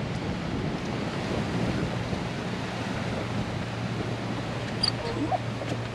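Wind rushing over the microphone, with a steady low hum underneath and a few faint ticks near the end.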